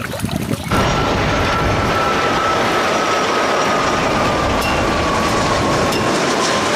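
Water starts running suddenly, probably a tap or hose, with a loud, steady rush and a faint whine that slowly falls in pitch. It comes after a few light clicks and splashes of toys being handled in water.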